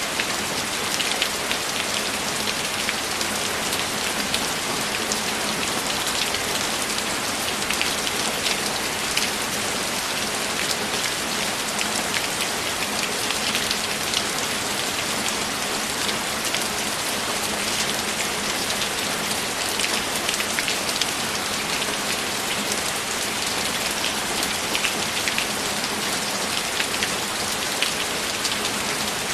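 Steady, heavy rain falling, a dense even hiss with many small drop ticks.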